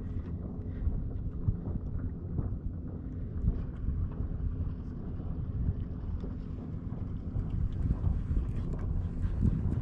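Wind buffeting the microphone: a steady low rumble with light ticks, and a faint steady hum underneath.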